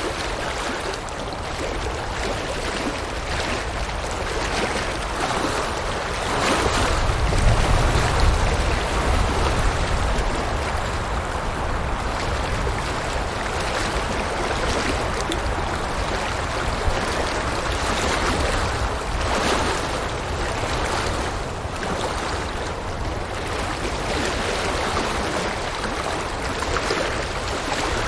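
River water flowing, a steady even noise, with a deeper rumble swelling for a few seconds about seven seconds in.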